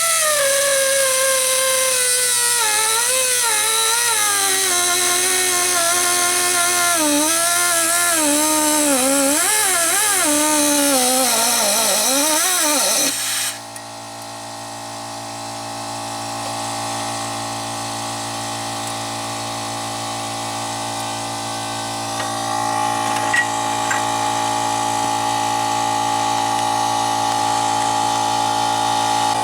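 Pneumatic cutting tool whining against a stuck exhaust manifold stud, its pitch wavering up and down as it bogs under load. About 13 seconds in it cuts off suddenly, leaving a quieter, steady hum of several even tones that slowly grows louder.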